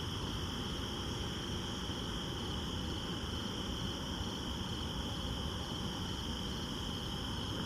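Steady chorus of night insects, a constant high-pitched shrill at several pitches, over a low background rumble.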